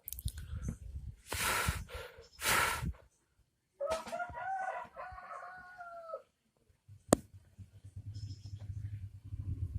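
A rooster crowing once, a drawn-out crow of about two and a half seconds starting about four seconds in. It is preceded by two loud, harsh noisy bursts and followed by a sharp click and a low hum.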